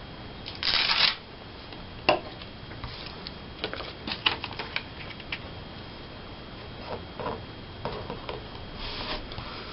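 Paper being handled at a craft table: a short rustle of paper about a second in, then a sharp click and scattered small clicks and taps as pictures are sorted and pasted.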